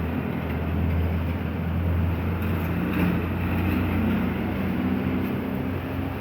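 A motor vehicle's engine running close by: a low hum with slowly shifting tones, over a steady hiss of street noise. It swells a little mid-way and eases near the end.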